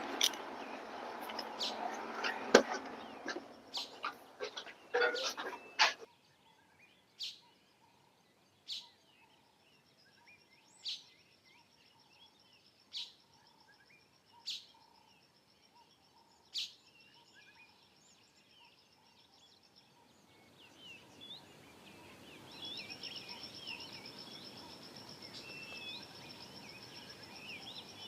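Outdoor ambience of birds chirping, with a high, steady trill that comes and goes. Sharp clicks sound every second or two. The first few seconds hold rustling and knocking that cuts off suddenly.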